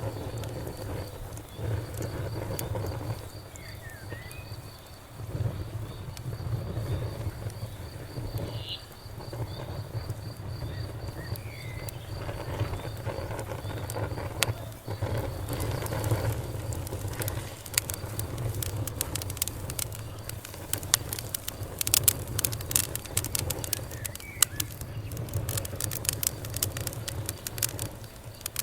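Campfire burning: a steady low rumble of the flames with sharp crackles and pops, which grow much denser in the second half. A faint high pulsing trill runs through the first third, with a few short chirps here and there.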